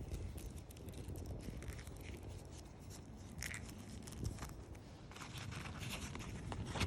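Faint, irregular crunching and scraping handling noise as the pocket chain saw is coiled up and packed into its pouch.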